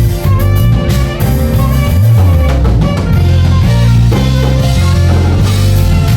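Saxophone playing a melody over a band or backing track with a drum kit and heavy bass, the held notes and steady drum hits running together.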